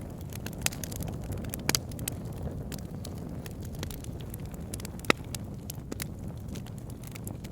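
Campfire burning with a steady low rush of flames and irregular sharp crackles and pops of wood, the loudest pop about five seconds in.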